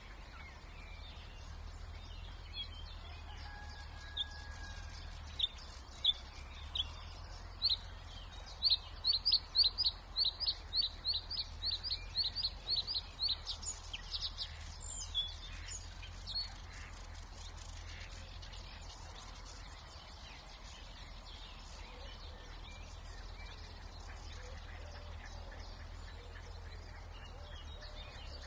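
A songbird sings close by: scattered sharp notes, then a fast run of repeated notes, ending in a few higher notes, over a low steady hum of distant traffic noise.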